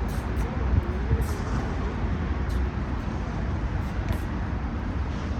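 Steady low outdoor rumble of city road traffic, with a few faint ticks.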